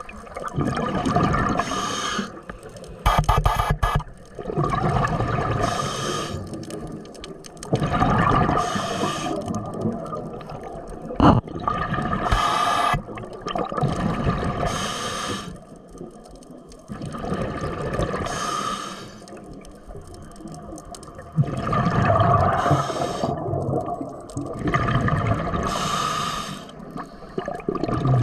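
Scuba diver breathing through a regulator underwater: a rushing inhale and a bubbling exhale repeat every three to four seconds.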